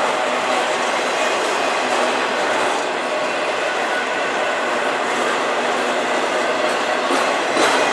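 Freight train of autorack cars rolling past: a steady noise of steel wheels on rail, with a couple of sharp wheel clacks near the end.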